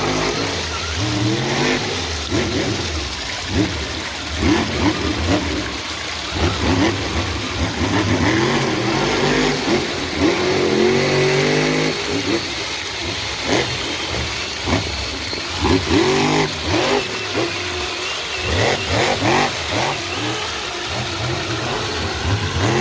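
RC off-road car's motor revving up and down repeatedly, its pitch rising and falling over a noisy background.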